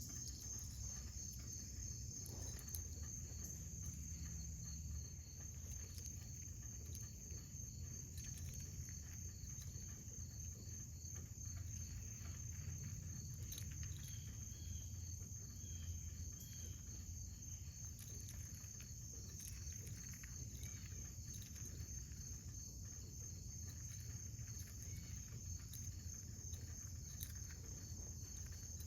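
Insects, cricket-like, trilling steadily in a high, continuous chorus, with a steady low rumble underneath and faint scattered ticks.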